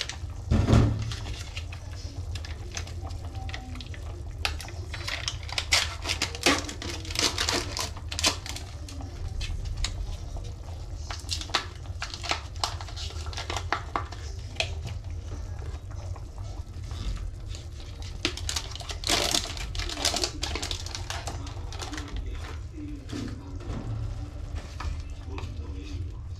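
Kitchen clatter: utensils and dishes clicking and knocking in irregular taps, with a heavier thump about a second in, over a steady low hum.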